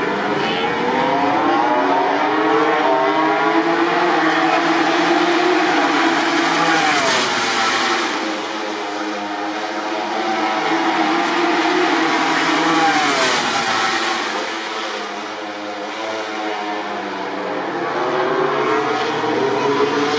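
MotoGP racing motorcycles, 1000 cc four-stroke four-cylinder prototypes, running at high revs with several engines heard at once. Two bikes pass close by, about 7 and 13 seconds in, each rising in pitch to a loud peak and then dropping away.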